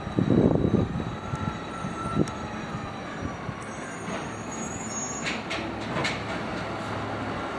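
Automated side-loader garbage truck working its arm at idle, without revving: a heavy thump just after the start, a faint wavering whine, then high squeaks and a few metallic clanks in the second half.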